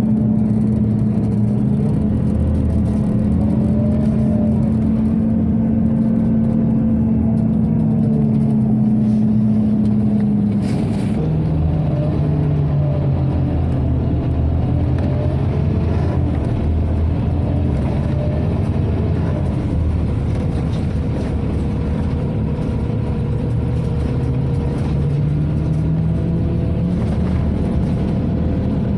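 Interior of a Scania OmniCity city bus with its ventilation blower running in a steady hum under the diesel engine, which rises and falls in pitch as the bus moves. About ten seconds in the hum drops sharply to a lower pitch, and it climbs back near the end.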